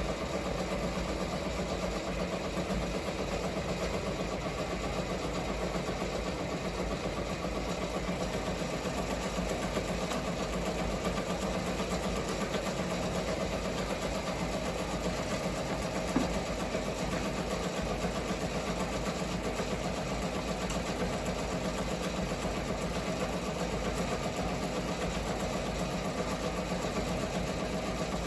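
Ricoma MT-1501 multi-needle embroidery machine stitching at a steady rapid pace. It runs louder than usual on needle 2, with a smacking noise that the owner and the tech cannot explain; it neither stops the machine nor spoils the stitching.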